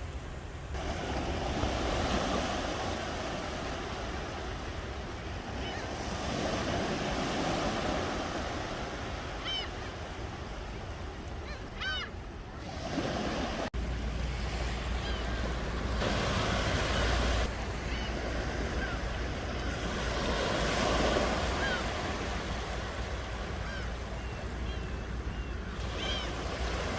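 Ocean waves breaking and washing up the shore, swelling and ebbing every few seconds over a low wind rumble. A few short bird calls sound faintly over the surf, several of them in the middle and near the end.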